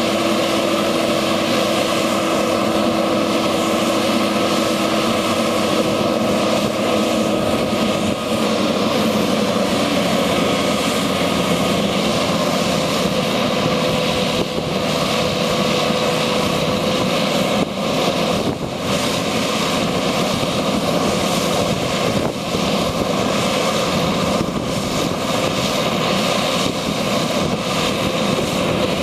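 Diesel engine of a 1997 International 2674 crane truck running steadily, with a droning whine that changes pitch about eight seconds in.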